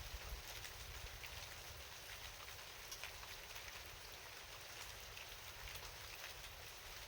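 Steady rain: an even hiss scattered with many small drop ticks, over a low rumble.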